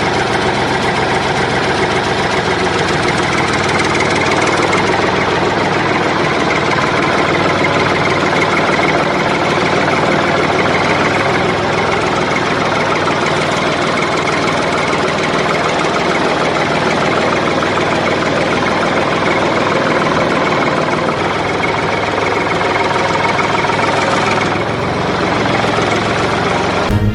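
A vehicle engine, a tractor's or backhoe loader's, running steadily without a break.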